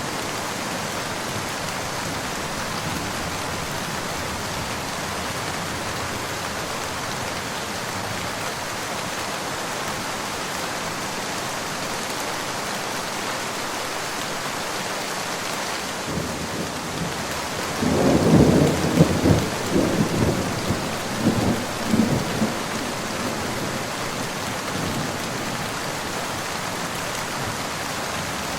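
Steady rain falling, with a roll of thunder about two-thirds of the way through that rumbles in several swells for about five seconds.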